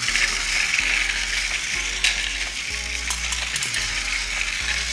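Battery-powered motorized toy high-speed train running along wooden track: a steady whirring rattle over a low motor hum, with a sharp click about two seconds in.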